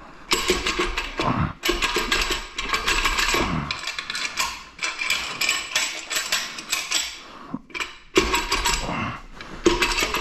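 Metal clanking and scraping of GM 2.4 EcoTec engine parts as the heavy aluminum main-bearing section is pried loose and worked off the block: a dense run of sharp knocks and clinks, with a short lull near the end.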